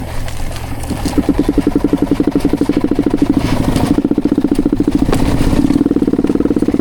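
Suzuki two-stroke dirt bike engine sounding in a rapid, even pulse that starts about a second in and grows slightly louder. The owner says the engine has just blown up and has no compression.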